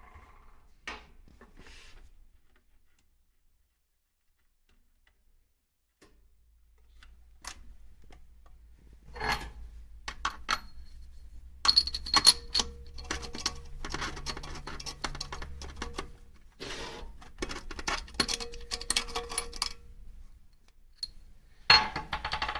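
Small metal parts and hand tools clinking, tapping and rattling in irregular bunches, with a few seconds of near quiet about three seconds in and a louder burst of clatter near the end.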